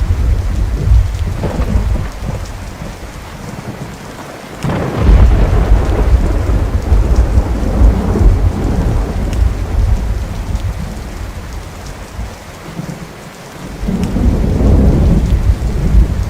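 Thunderstorm with steady rain and rolling thunder: a loud crack of thunder breaks in about four and a half seconds in and rumbles away over several seconds, and another roll builds near the end.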